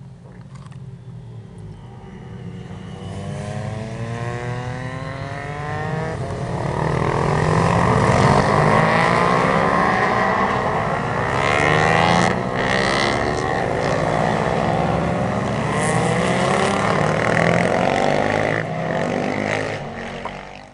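A group of racing motorcycles approaching and passing, several engines revving up and down through the gears at once. They grow louder over the first few seconds, stay loud through the middle and fade away near the end.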